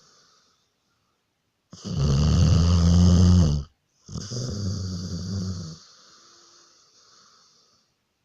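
A dog snoring: one long, loud snore about two seconds in, then a softer one that fades away.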